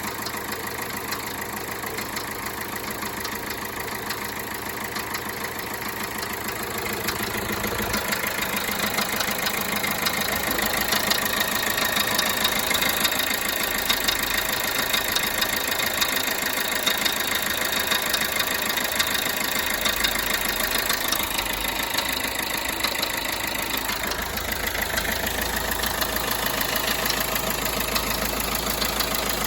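Peugeot Bipper Tepee's 1.3 HDi four-cylinder diesel engine idling steadily, growing louder about eight seconds in.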